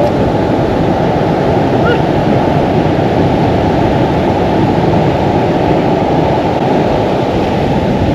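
Ocean surf, a steady loud rushing noise with no separate wave crashes standing out.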